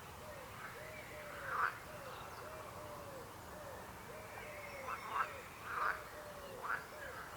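Frogs calling: a steady chorus of short low calls, each rising then falling in pitch, about two a second. Louder, higher croaks break in about a second and a half in and several times in the second half.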